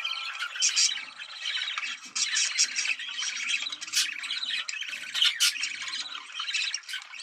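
Budgerigars chattering and warbling without pause, with sharp squawks cutting in. This is the excited breeding-season chatter used to bring other budgies into breeding condition.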